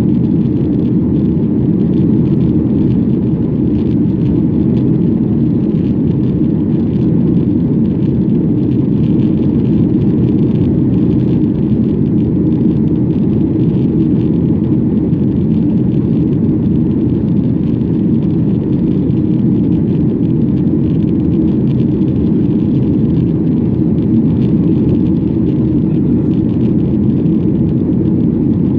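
Airliner in its take-off climb: a loud, steady, low rumble of jet engines and rushing air, as heard from inside the passenger cabin.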